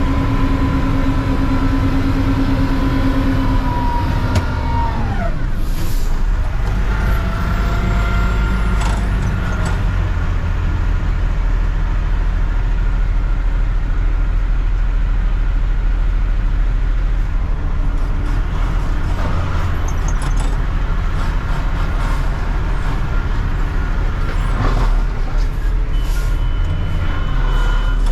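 Front-end garbage truck on a Mack CNG chassis: a steady whine falls away about five seconds in, then a low, steady engine rumble, with a few short knocks. A thin high tone comes in near the end.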